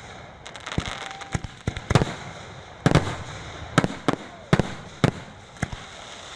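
Aerial firework shells bursting in a quick run of sharp bangs, about one every half second to a second, with crackling between them. The bangs stop a little over five seconds in, leaving a steady crackling hiss.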